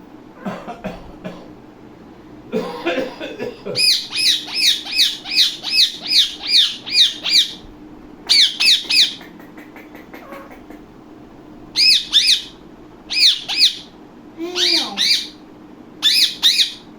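Indian ringneck parakeet screeching: sharp calls that fall in pitch, about two a second, in several bursts, the longest a run of about eight. A few softer, lower sounds come first.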